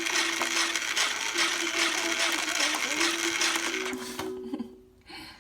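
A motorized toy running with a loud whirring, a few steady notes of a simple tune sounding over it; it stops about four seconds in.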